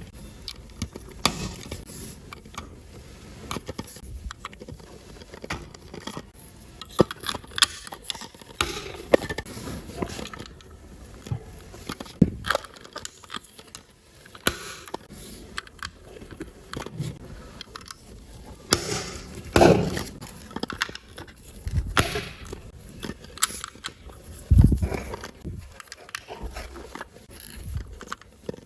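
Plastic LEGO bricks being handled and pressed together: irregular clicks and scrapes, with a few louder knocks.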